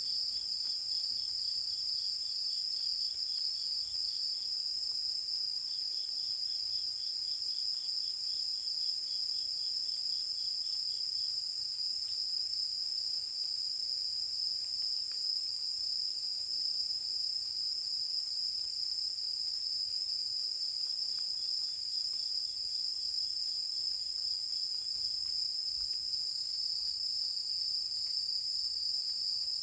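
Chorus of night insects: a steady, high-pitched continuous trilling, with a second insect chirping in quick pulses in bouts of a few seconds, at the start, again from about six to eleven seconds in, and once more past the two-thirds mark.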